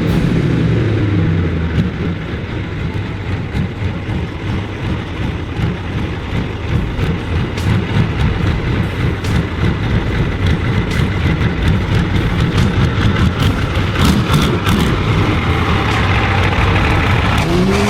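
Heavy vehicle engine running hard, with a rough, uneven rumble.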